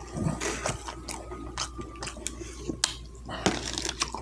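Close-miked chewing, with wet mouth smacks and bites coming irregularly.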